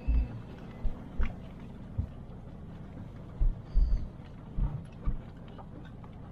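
Mahindra TUV300 jolting over a badly broken road: irregular low thuds from the suspension, some with small knocks and rattles, about eight in all, over a steady low engine hum.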